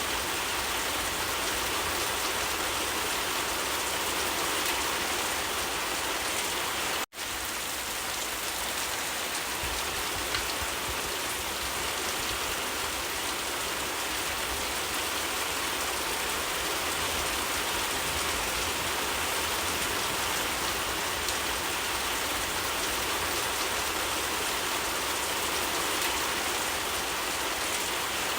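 Steady rain falling and pattering on surfaces, an even continuous hiss. It cuts out for an instant about seven seconds in, then carries on unchanged.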